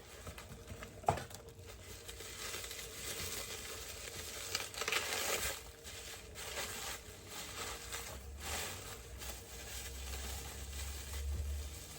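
Packaging being opened by hand: irregular crinkling, rustling and tearing, with a sharp knock about a second in.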